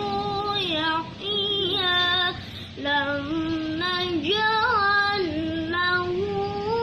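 A boy's high voice reciting the Quran in melodic tilawah style. He holds long, ornamented notes that bend up and down, with two short breaks, about a second in and about two and a half seconds in.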